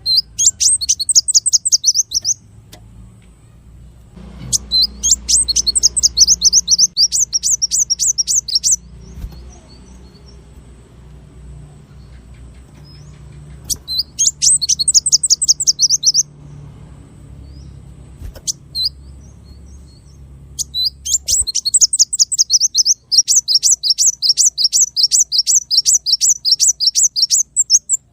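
A small songbird singing rapid trills of sharp, high, down-slurred notes, about nine a second. The trills come in four bursts, and the last one is the longest. These are the 'tembakan' (shooting) phrases prized in masteran recordings for training songbirds.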